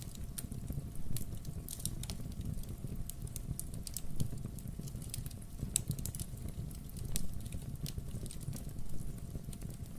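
Wood-burning fireplace crackling: a steady low rumble of burning logs with many small sharp pops and crackles, a few louder pops scattered through.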